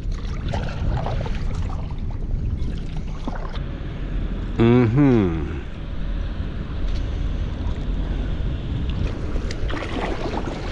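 Wind buffeting the microphone over water lapping around a kayak, with small splashes and knocks. About halfway through comes a brief, loud pitched tone whose pitch wavers up and down.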